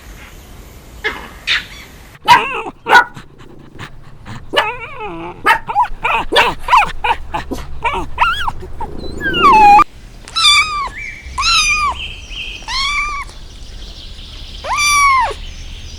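Dog barking and yipping in quick, short calls. About ten seconds in, after a sudden break, a run of about five high, arched cries follows, roughly one a second.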